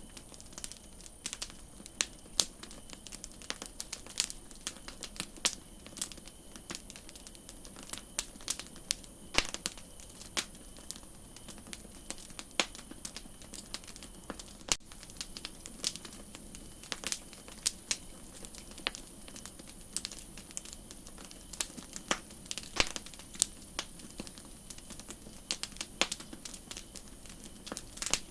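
Wood fire crackling, with irregular sharp pops and snaps over a steady soft high hiss that gets slightly louder about halfway through.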